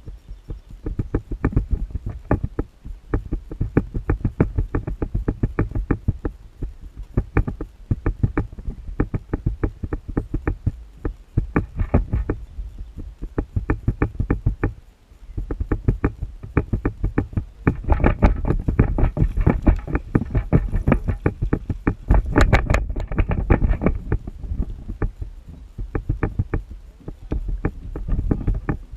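Fishing reel being cranked: runs of rapid, evenly spaced ticks broken by short pauses, heaviest past the middle.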